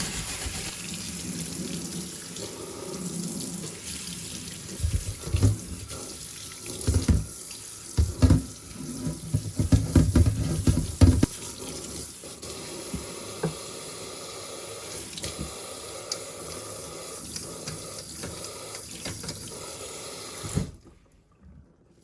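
Water running from a tap into a sink, with irregular knocks and bumps of things being handled and rinsed under the stream for a few seconds. The running water stops abruptly near the end.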